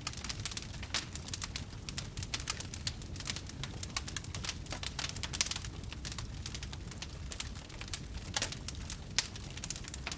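Wood campfire crackling, with many irregular sharp pops and snaps over a steady low rumble of the flames.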